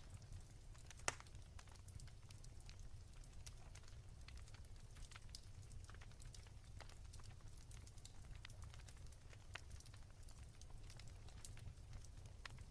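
Wood fire crackling softly: scattered small pops and snaps, with one sharper pop about a second in, over a low steady rumble.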